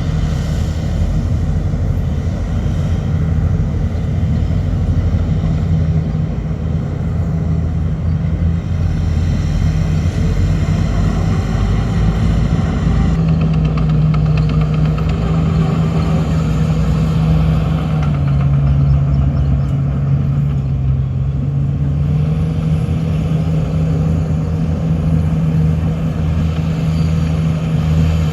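Heavy diesel engine of earthmoving machinery running steadily, its pitch dipping for a few seconds about two-thirds of the way through and then rising again.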